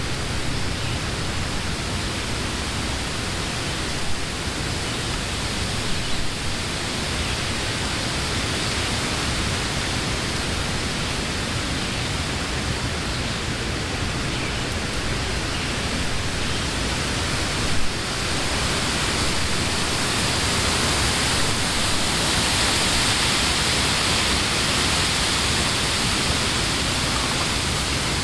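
Wind blowing through leafy trees: a steady rushing of leaves that swells into a stronger gust about two-thirds of the way in.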